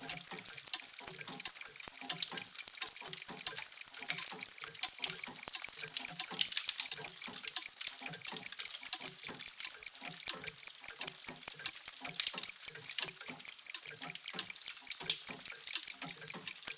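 Many mechanical clocks ticking at once, their ticks overlapping into a dense, steady patter of small clicks with softer low knocks mixed in.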